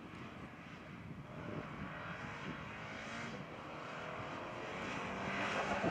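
Subaru BRZ's 2.0-litre flat-four boxer engine under acceleration, its note climbing in pitch through the revs and dropping back, growing louder toward the end as the car comes closer.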